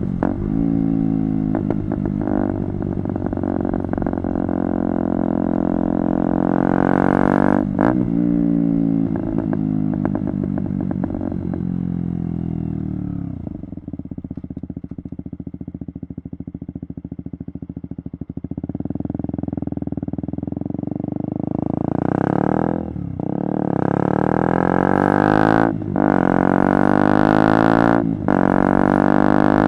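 KTM Duke 125's single-cylinder engine through a Radical Racing GP aftermarket exhaust with its dB-killer removed, accelerating through the gears: the revs climb, with a short break at each upshift. About halfway through it drops back to low revs for several seconds, then pulls hard again, shifting up three times near the end.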